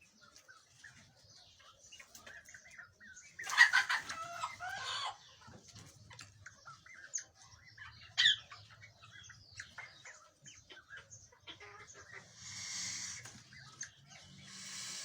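Fowl calling: one loud, harsh pitched call lasting about a second and a half a few seconds in, a sharp single chirp a little later, and many small chirps and clucks between. Two soft rustling patches near the end.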